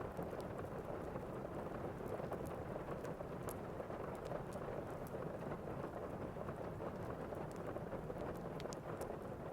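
Thunderstorm and fireplace ambience: steady rain with scattered sharp crackles of a wood fire.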